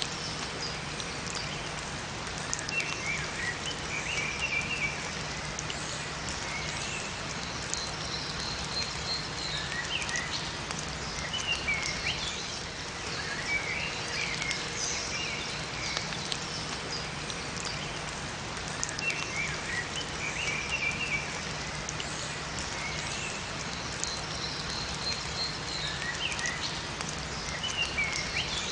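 Steady rain falling in a forest, with small birds chirping in short phrases that come back every few seconds.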